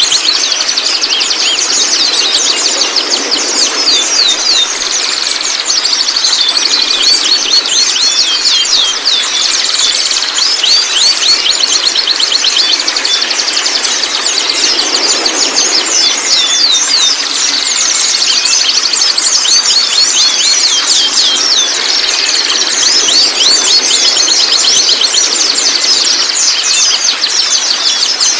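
White-rumped shamas calling continuously: dense, rapid, high-pitched chattering chirps that sweep quickly up and down, over a steady hiss.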